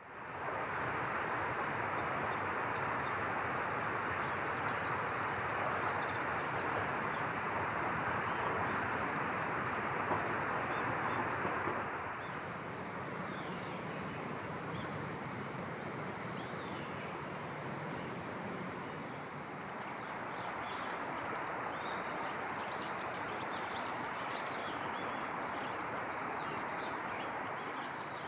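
Outdoor ambience: a steady rushing noise, with a thin high steady tone in the first part and many short high chirps of small birds in the later part.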